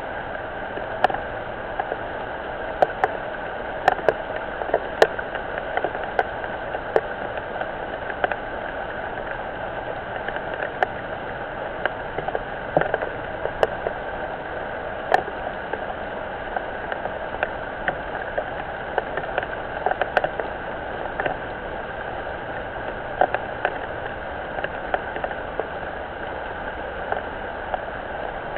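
Rain falling on a garden pond and its surroundings: a steady hiss with many irregular sharp drips and plinks.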